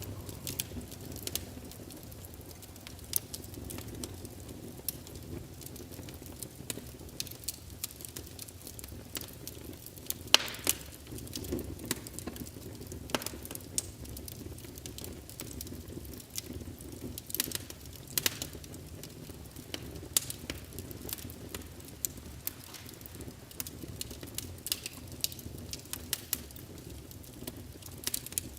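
Wood fire crackling: irregular pops and snaps over a steady low rumble of flames.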